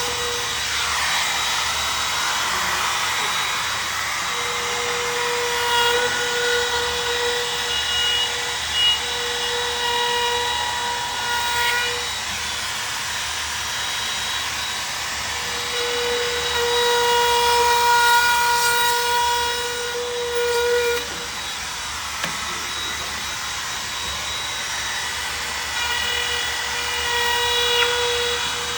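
Handheld edge trimmer (small router) running, its flush-trim bit cutting away overhanging wood veneer along a panel edge. It gives a steady whine whose pitched tone grows louder and fades again in stretches as the bit cuts.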